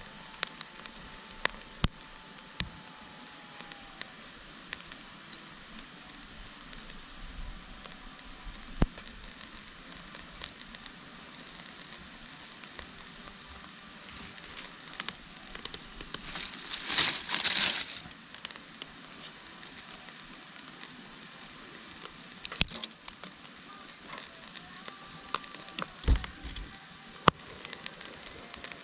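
Wood campfire crackling and hissing, with scattered sharp pops and a louder surge of hissing about seventeen seconds in.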